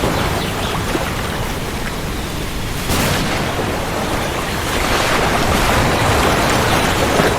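Steady heavy rain with a low rumble of thunder that rises about three seconds in and swells toward the end.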